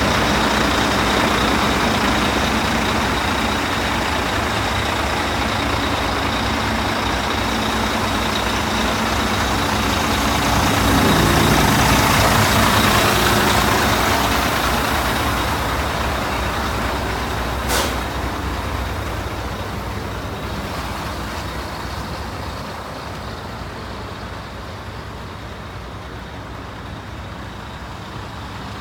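2007 Volvo quad-axle dump truck running. It swells louder about a dozen seconds in, then fades steadily toward the end, with one brief sharp sound a little past halfway.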